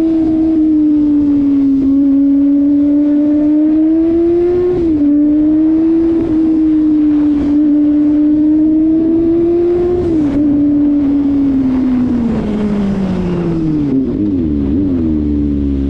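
Kawasaki ZX-25RR's 250 cc inline-four running at high revs under way, holding a steady pitch with two brief dips where it changes gear, about five and ten seconds in. Near the end the revs fall away in steps, with quick downshift blips, as the bike slows.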